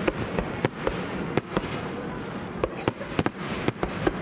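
Aerial firework shells bursting one after another at an irregular pace, about a dozen sharp reports over a steady background haze, with a cluster of quick bangs in the last second and a half.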